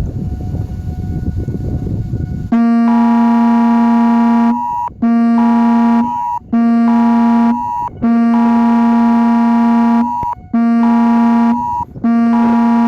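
Wind rumbling on the microphone, then, from about two and a half seconds in, a loud horn sounding six long, steady blasts at one pitch with short gaps between them.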